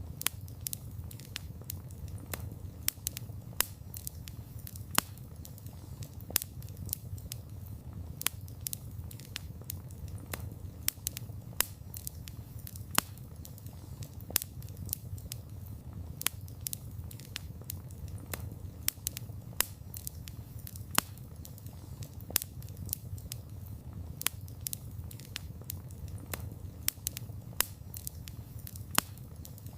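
Wood campfire crackling: frequent irregular sharp pops and snaps of burning wood, a few much louder than the rest, over a low steady rumble.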